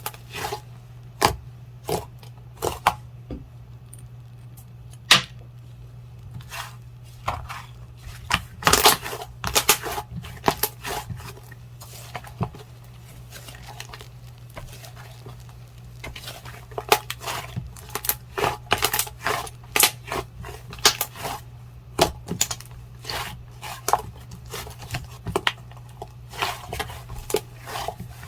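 Clear jelly slime being squeezed and stretched by hand, giving irregular sharp clicks and pops in quick clusters. A steady low hum sits underneath.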